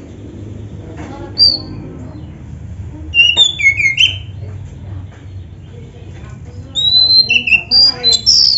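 Oriental magpie-robin (kacer) singing in separate bursts of sharp whistled and chattering notes: a short phrase about a second and a half in, a quick cluster around three to four seconds, and a longer, busier run near the end.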